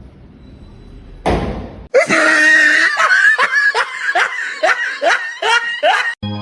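A person laughing hard, a fast run of repeated laughs that starts about two seconds in, after a brief whoosh.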